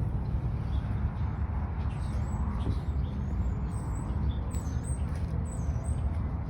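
Car engine idling with a steady low rumble. Short, high bird chirps come in from about two seconds in.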